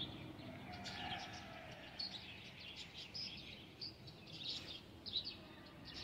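Small birds chirping in the background: many short, high chirps scattered throughout, over a steady low background noise.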